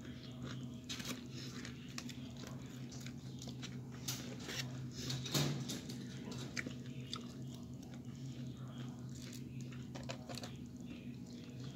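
A person chewing and crunching tortilla-chip nachos close to the microphone, with irregular crackling crunches, the loudest about five seconds in.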